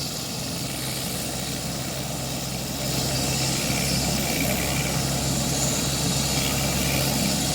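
Helicopter engine and rotors running steadily on the ground, a continuous drone with a faint high whine that grows a little louder about three seconds in.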